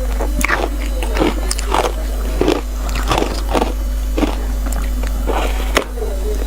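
Close-miked crunching of ice between the teeth: a steady run of sharp bites and chews, roughly two crunches a second.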